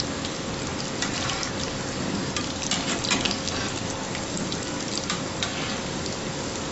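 Breaded fish fillets deep-frying in hot oil: a steady sizzle, with scattered crackles and pops all through.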